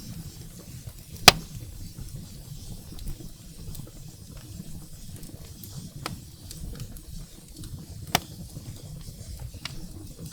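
Firewood burning in a fireplace: a steady low rumble of flame with scattered sharp crackling pops. The loudest pop comes about a second in, and another strong one later on.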